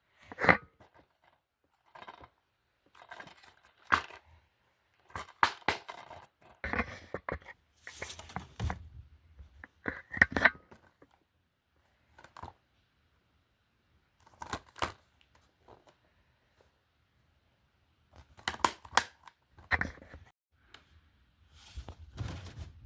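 Plastic DVD and Blu-ray cases being handled: irregular clicks, clacks and rustling, in short bursts with quiet gaps between.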